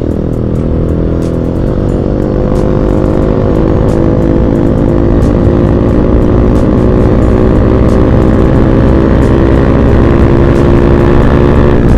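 Bajaj Pulsar NS200's single-cylinder engine through an Akrapovic aftermarket exhaust, accelerating with the revs climbing steadily and the engine note getting slightly louder.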